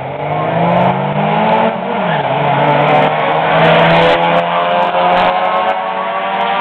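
Honda Civic and Honda del Sol engines accelerating flat out from the line in a drag race, revving up, dropping in pitch at a gear change about two seconds in, then revving up again.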